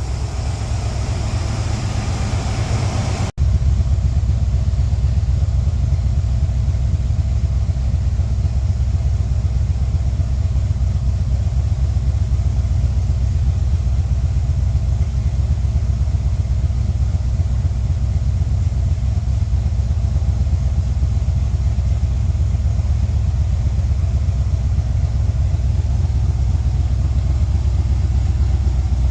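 355 V8 idling steadily on a freshly rebuilt Holley 750 double-pumper carburettor, a low, even rumble that runs smoothly. The sound drops out for an instant about three seconds in, then carries on unchanged.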